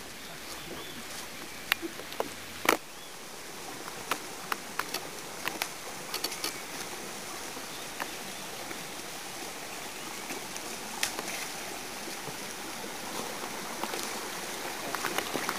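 Steady rushing of a stream, with scattered sharp clicks and snaps over it, the loudest about two and a half seconds in.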